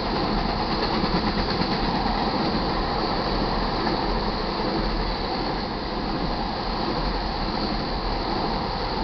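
Freight train of crude-oil tank cars rolling past, the steady noise of steel wheels running on the rails.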